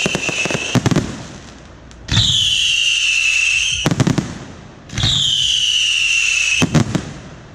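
Daytime fireworks battery firing shots that each go off with a thump, whistle high and slightly falling for under two seconds, and end in a cluster of sharp cracks. One whistle ends in cracks about a second in, and two more follow, starting about two and five seconds in.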